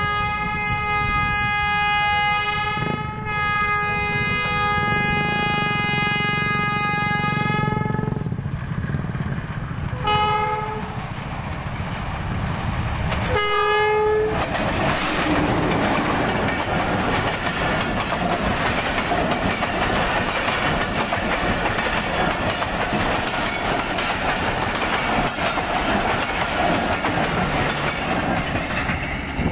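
A diesel locomotive's horn sounds two long blasts, then two short toots, as the train approaches. It then passes close by with a loud, steady rumble and the clatter of the coaches' wheels on the rails.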